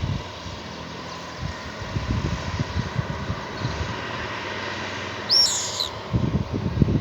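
A bird gives one short, high chirp with quick pitch sweeps about five and a half seconds in, over uneven low rumbling that comes and goes.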